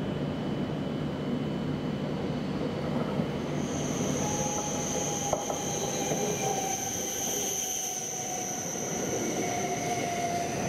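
E7 series Shinkansen train pulling slowly into the station and rolling past close by, with a steady rumble of wheels on track. About four seconds in, a steady high-pitched squeal and a humming tone join in, and the humming tone slowly sinks in pitch as the train slows.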